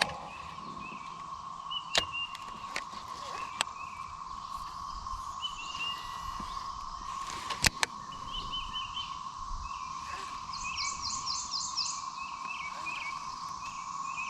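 Birds calling outdoors: short chirps repeating every second or so, with a run of fast high trills about ten seconds in. A steady high hum runs underneath, and a few sharp clicks break through, the loudest about eight seconds in.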